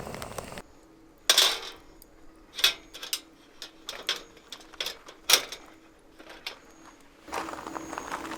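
Sharp clinks and knocks of camp cookware and utensils being handled, a few separate strikes spread about a second apart, after a brief stretch of fire crackling at the very start.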